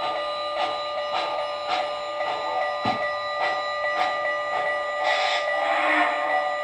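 MTH Proto-Sound 2.0 steam sound from a model Russian Decapod 2-10-0 locomotive running light: even chuffs a little under two a second over a steady whine, with a swell of steam hiss about five seconds in.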